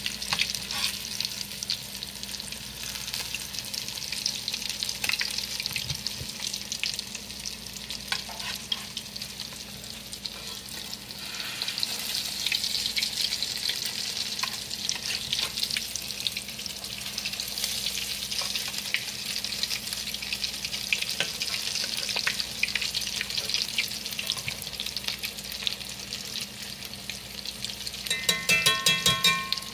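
Buffalo-fish patties sizzling and crackling in about half an inch of hot olive oil in a cast-iron skillet as they brown, with occasional scrapes and clicks of a metal spatula against the pan. Near the end a short, loud buzzing tone sounds over the frying.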